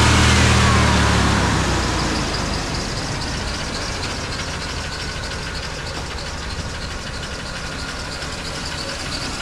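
A 1989 GMC Sierra pickup's engine runs at raised revs and drops back to a steady idle about two seconds in. It is being run only briefly, with no coolant in the system yet.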